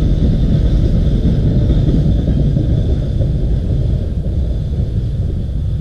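Freight train wagons rumbling past on the track, a loud low rumble that fades gradually as the last wagons move away.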